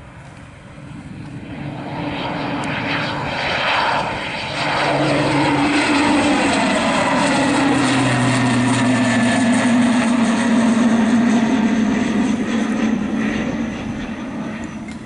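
Fokker 50 twin-turboprop airliner passing at high power, most likely on its takeoff run. Its propeller drone builds over the first few seconds into a loud, steady hum with a whining engine tone whose pitch sweeps down as it goes by, easing off near the end.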